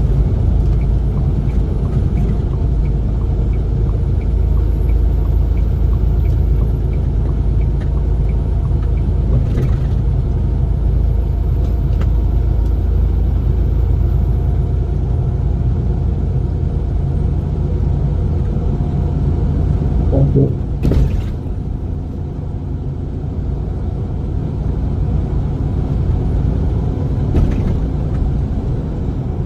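Steady low rumble of a road vehicle on the move, with a few brief knocks along the way.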